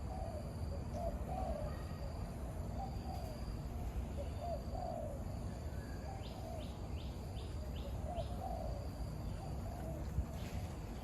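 Birds calling in an aviary: a low call repeated roughly once a second, a thin high note that comes and goes, and a quick run of about five chirps midway.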